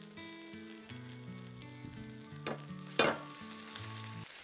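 Tomato uttapa sizzling in oil on a hot nonstick tawa. Two sharp clacks against the pan come about two and a half and three seconds in, the second one louder.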